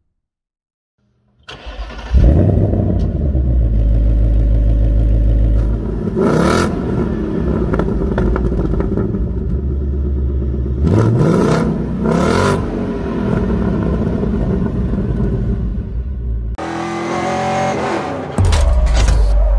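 Ford Mustang V8 engine running loudly and revving, with a few quick rises in pitch. Near the end the sound cuts abruptly to another burst of engine noise.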